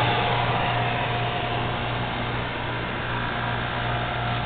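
DrizAir 1200 portable refrigerant dehumidifier running steadily: its fan blows with a low, even hum and a faint steady whine.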